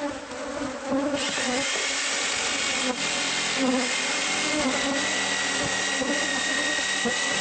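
A power tool starts about a second in and runs at a steady high whine. Throughout, honeybees from the hive buzz.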